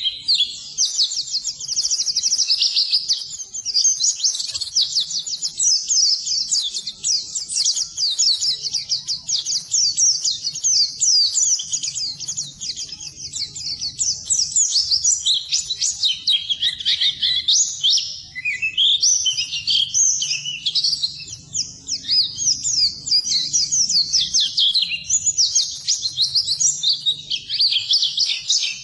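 White-eye (pleci) singing a long, fast, high-pitched twittering song of rapid chirps with no pauses. This is the fast twitter that Indonesian bird keepers call ngeriwik.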